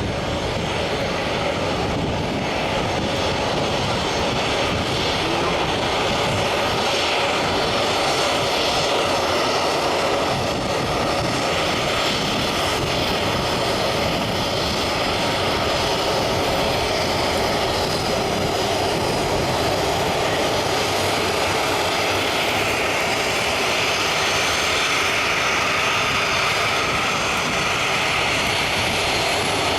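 Boeing 737-300's CFM56 jet engines running steadily at low power: a constant whine over a rushing noise.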